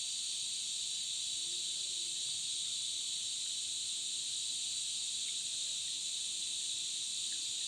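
A steady chorus of night insects, a continuous high-pitched shrill drone that holds unchanged throughout.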